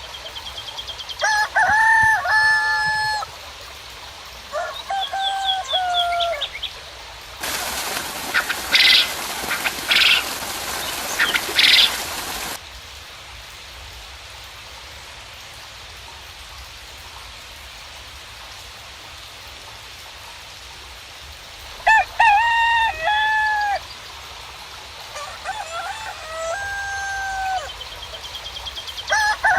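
Roosters crowing over and over, each crow a long drawn-out call, with small birds chirping between them over a steady background hiss. About a quarter of the way in, a louder burst of hissing noise lasts some five seconds and cuts off abruptly.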